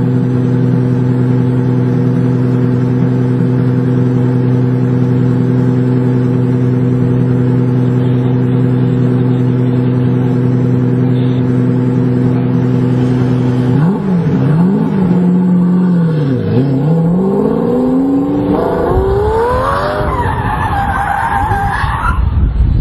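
A car engine held at a steady high speed, then revved up and down several times, its pitch climbing higher near the end.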